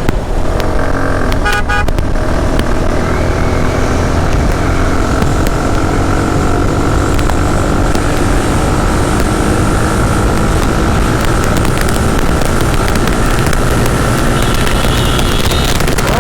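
Motorcycle riding on a highway, with heavy wind rush on the microphone over the engine and road noise. A vehicle horn toots briefly about a second and a half in.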